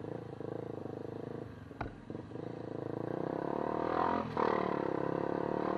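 Motorcycle engine running on the move, its pitch rising as it speeds up from about three seconds in, with a sharp click a little under two seconds in.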